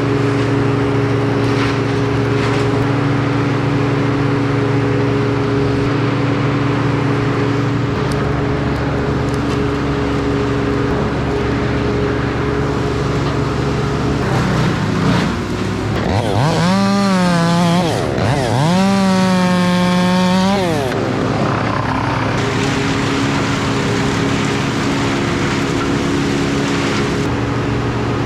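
Two-stroke chainsaw revved up to full throttle twice in quick succession, each rev held for about two seconds and then dropped, about halfway through. A steady engine drone from other heavy equipment runs underneath throughout.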